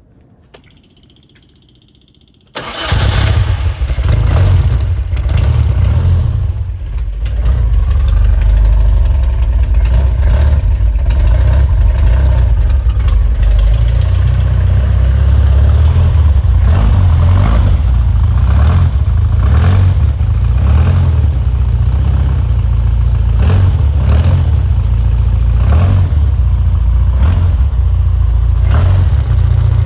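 De Tomaso Vallelunga's Ford four-cylinder engine cold-starting: it catches suddenly about two and a half seconds in, dips briefly a few seconds later, then settles into steady running.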